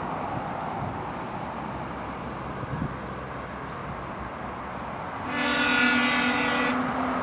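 Steady rumble of a freight train on the move. About five seconds in, the VL80R electric locomotive's horn sounds once for about a second and a half.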